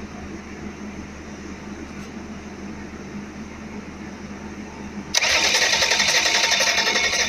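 Renault engine starting about five seconds in, then running loudly with a fast, even pulse. Before that there is only a low, steady hum.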